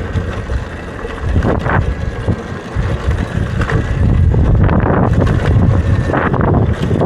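Wind buffeting the microphone over the running noise of a Talaria electric dirt bike riding a trail, with scattered knocks and rattles from the bike, getting louder about four seconds in.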